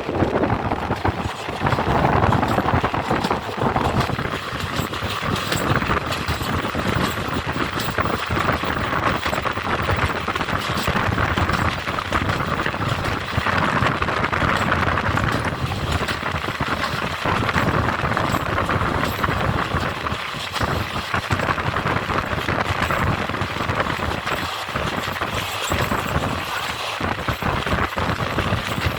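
Moving passenger train running along the track: a steady rumble and rushing noise with many small clattering knocks from the wheels and carriage.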